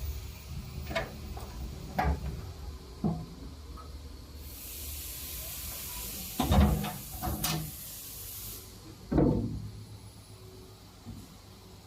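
A series of knocks and clunks, like doors or hatches being handled, with the loudest near the middle and just after. A steady hiss runs for about four seconds in the middle.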